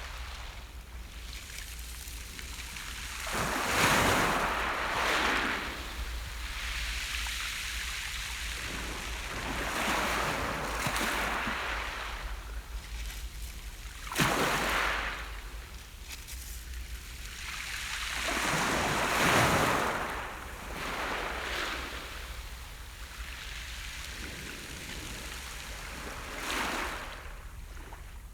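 Sea surf: small waves breaking on the beach and washing back, surging about five times, the sharpest break about 14 seconds in.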